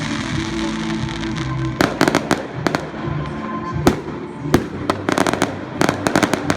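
Fireworks going off: after about two seconds, clusters of sharp bangs and cracks come in quick succession. Music plays underneath throughout.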